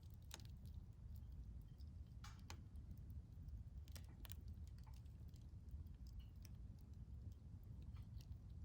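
Wood fire burning in a Solo Stove Bonfire fire pit: faint, irregular crackles and pops from the burning wood over a steady low rumble.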